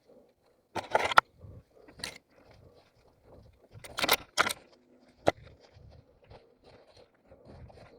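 An orienteer's footsteps through forest terrain, heard from a head-mounted camera, with several short bursts of rustling and scraping, as of brush or clothing, and a single sharp click about five seconds in.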